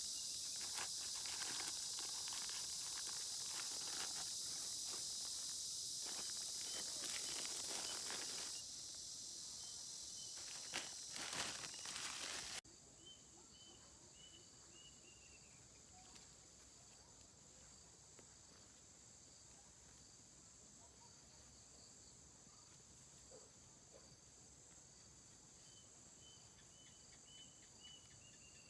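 A steady high hiss with a few clicks toward its end, which stops abruptly just under halfway through. After that, a quieter steady insect chorus with short runs of high chirps.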